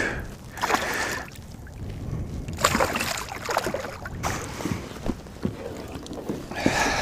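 Water sloshing and splashing around a fishing kayak, with scattered knocks and rustles of handling, while a freshly caught chain pickerel is brought in.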